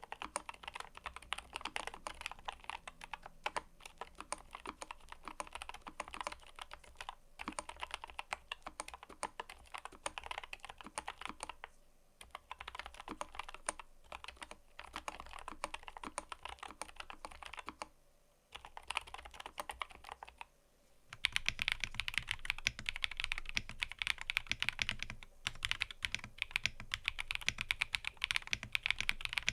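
Typing on a mechanical keyboard: a fast, steady clatter of keystrokes with brief pauses. About two-thirds of the way in it becomes louder and deeper.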